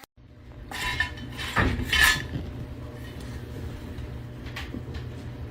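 Several short clinks about one to two seconds in, then a steady low hum.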